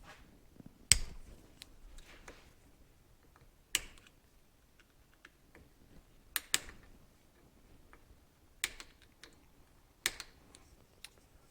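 Sharp metal clicks and taps of a tool working a snap ring loose to get a seal out. The clicks come irregularly, about six of them, with the loudest about a second in and two in quick succession past the middle.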